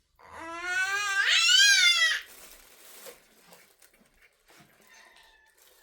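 One long, wavering high-pitched cry lasting about two seconds, starting just after the beginning and rising in pitch partway through.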